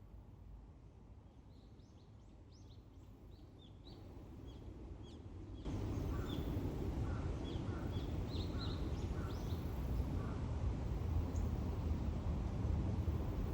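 Birds chirping in short, high notes, repeated many times, over a low rumble that gets louder about six seconds in.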